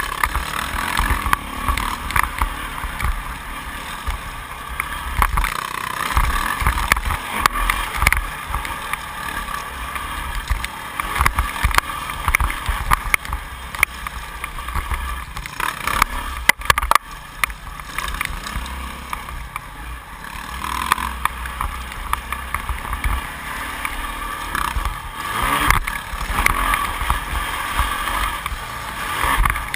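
Yamaha YZ450F's single-cylinder four-stroke engine being ridden hard round a motocross track, its note rising and falling with the throttle, heard through an on-board GoPro HD in its housing, with scattered knocks from the ride.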